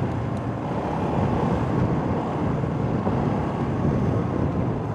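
A motorcycle on the move: a steady rush of wind and road noise on the rider's microphone, with the engine running underneath.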